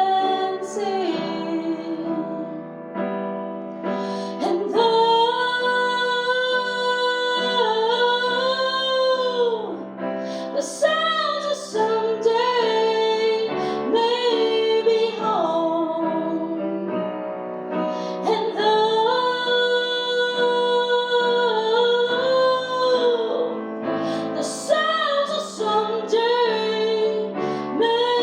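A woman singing a slow song solo over instrumental accompaniment, holding several long wavering notes between shorter phrases.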